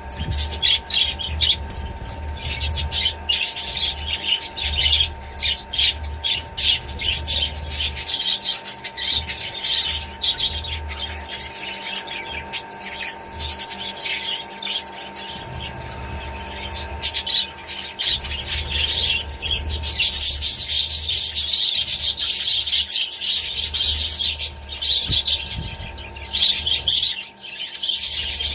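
A flock of budgerigars chattering and chirping without pause, many quick squeaky calls overlapping, over a low rumble that comes and goes.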